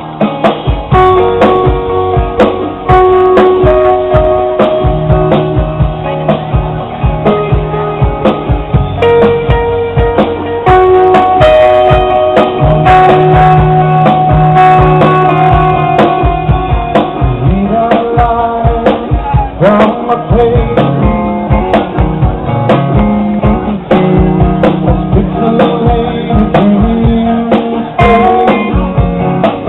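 Progressive rock band playing live: guitar melody lines over a low bass part and a steady run of drum hits.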